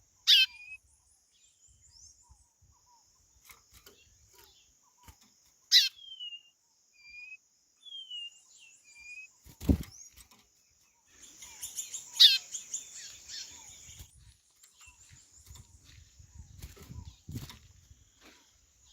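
White-bellied seedeater (chorão) calling in the wild: three loud, sharp downward-sweeping calls about six seconds apart, among short repeated whistled notes, over a steady high hiss. A low thump comes near the middle.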